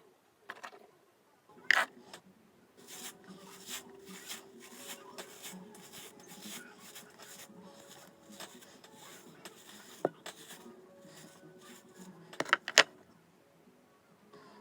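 Hair being handled and brushed close to the microphone: uneven rubbing and scraping, with scattered sharp clicks and taps, the loudest a cluster near the end.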